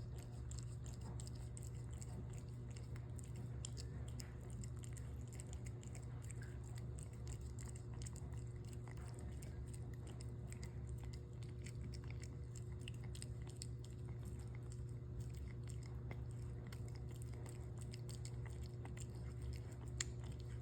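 A cat eating, with many small, quick crunching and chewing clicks throughout.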